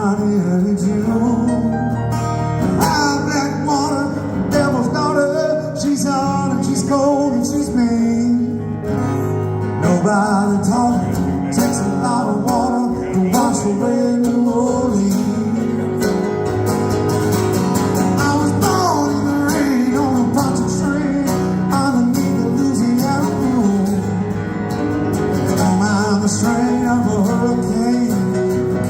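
Live band music with guitar: an instrumental passage of the song, with no sung words.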